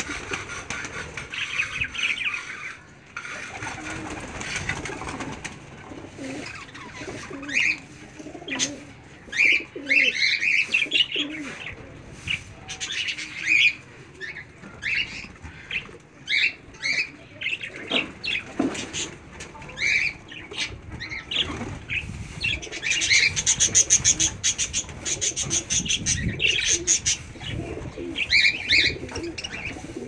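Birds calling: a stream of short high chirps, some in quick clusters, with lower calls underneath.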